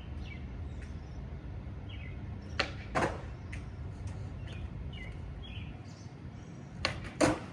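Skateboard rolling on pavement with a steady low rumble, broken twice by a pair of sharp wooden clacks from the board, once about two and a half seconds in and again near the end. Birds chirp in the background.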